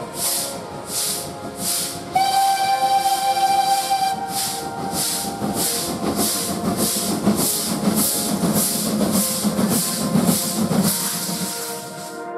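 Steam locomotive working hard, its exhaust chuffing in regular beats that quicken from about two to about three a second. One long steam whistle blast about two seconds in.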